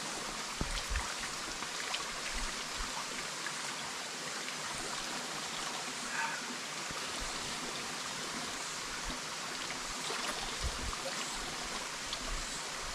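Small stream flowing steadily, with a few faint knocks and thumps.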